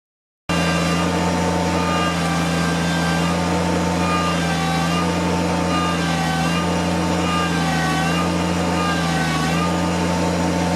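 Kubota tractor's diesel engine running at a steady speed, cutting in abruptly about half a second in.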